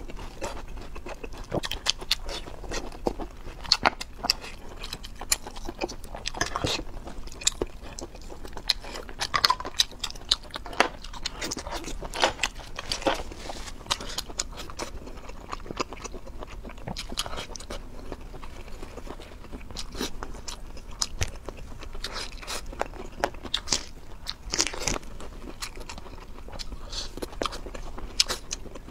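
A person chewing and biting food close to the microphone, with a dense, irregular run of sharp crunches and crackles.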